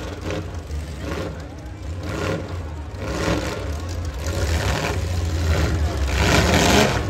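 Several demolition derby cars' engines running and revving as the cars push against each other, over a steady low engine drone, with voices from the crowd. The loudest surge comes near the end.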